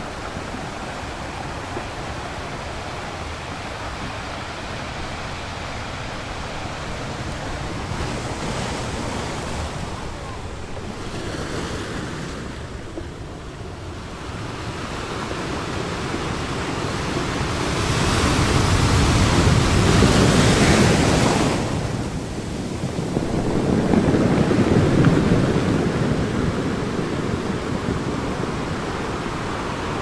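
Ocean surf: a continuous wash of breaking waves. It swells into two louder breakers in the second half, the first peaking a little after the middle and the second a few seconds later.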